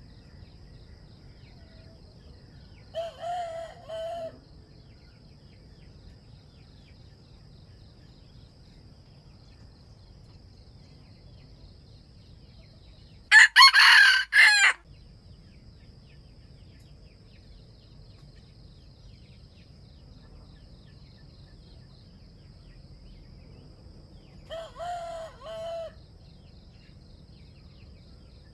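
Red junglefowl roosters crowing in turn: three short crows about ten seconds apart, each lasting about a second and a half, the middle one far louder and closer than the other two. A steady high insect drone runs underneath.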